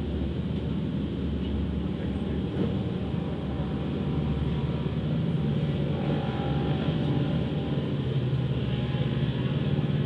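Vehicle engine running steadily, recorded on board, growing a little louder after about four seconds.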